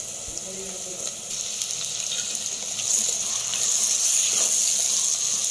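Chopped tomatoes and onions sizzling in hot sesame oil in a clay pot as a spatula stirs them, the sizzle growing louder about three seconds in.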